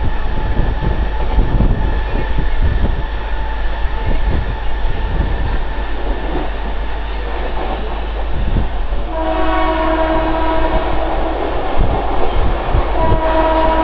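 Mumbai suburban electric local train running fast, its wheels rumbling and clattering over the rails, heard from the open doorway with wind on the microphone. About nine seconds in a train horn sounds a long steady blast, and it sounds again near the end.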